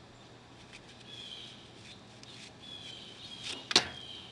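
Faint bird chirps in the background, a few short whistled calls, with one sharp knock near the end that is the loudest sound.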